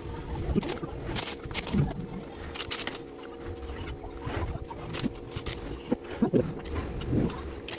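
Irregular small clicks and knocks of plastic model-kit pieces being handled and fitted, over a steady low hum.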